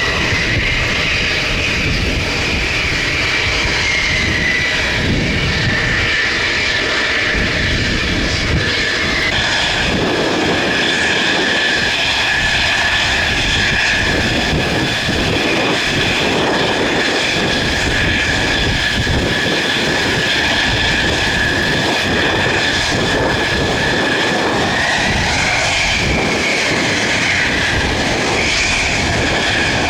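Military jet engines running with a steady high whine, with wind buffeting the microphone as an uneven low rumble.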